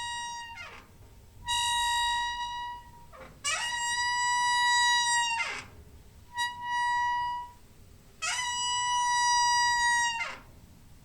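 A creaky door squeaking open and shut over and over: a series of long squeaks, each a steady high note, several ending in a quick downward slide in pitch, with short gaps between them.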